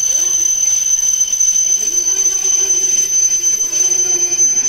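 Steady high-pitched electrical whine from stationary W7 series shinkansen trains at the platform, with fainter higher and lower tones alongside it; it cuts off near the end.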